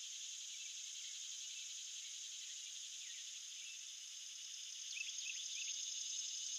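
A steady, high chorus of summer insects buzzing. A bird adds a few short chirps about five seconds in.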